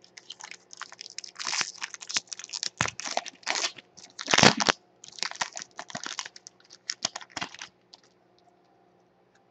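Trading card pack wrapper being torn open and crinkled by hand: a run of irregular crackles and rustles that dies away about three-quarters of the way through.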